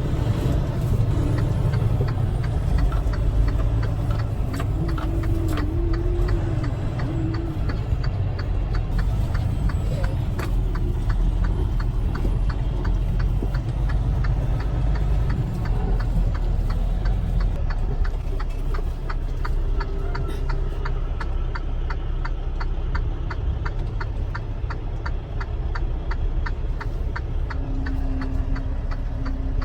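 Truck's engine rumbling steadily in the cab, with a steady fast ticking that starts about nine seconds in and runs until near the end.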